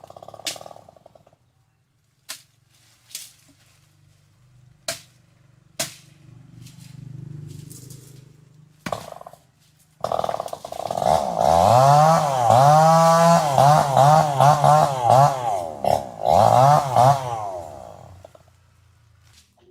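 Chainsaw engine idling low with a few sharp clicks, then revved hard over and over for about eight seconds, the pitch rising and falling with each blip of the throttle, before dropping back to idle near the end.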